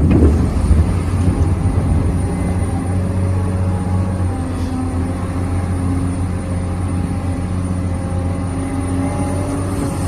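Remote-controlled scale Volvo excavator running: the steady hum and whine of its motor-driven hydraulic pump, a little louder in the first second.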